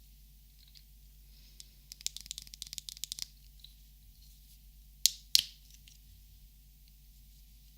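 Plastic Copic markers being handled: a quick clattering run of small clicks, then two sharp clicks about a third of a second apart, like a marker cap being clicked.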